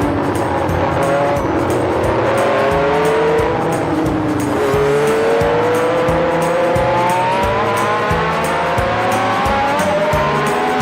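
A racing car's engine accelerating hard, its pitch climbing, dropping at a gear change about four and a half seconds in, then climbing again, mixed with music that has a steady beat.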